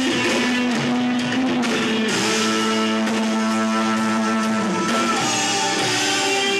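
Live rock band music led by guitar, with long held notes, one bent down and back up about five seconds in.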